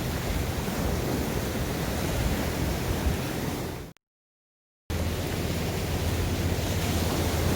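Steady wash of sea surf with wind rumbling on the microphone. The sound cuts out completely for about a second around four seconds in, then picks up again.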